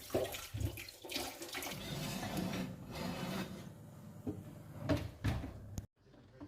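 Water running from a kitchen tap, with a few sharp knocks. The sound drops out abruptly for a moment near the end.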